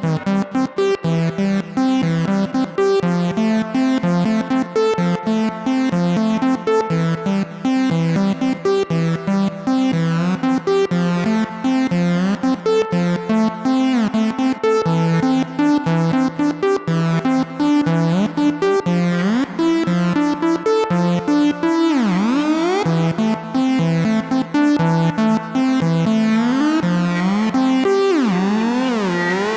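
Synthesizer preset from Excite Audio's Evolve Alloy, a sample-based synth built on metallic sounds, playing a fast, busy run of pitched notes. Later on, gliding tones that bend up and down come in over the notes.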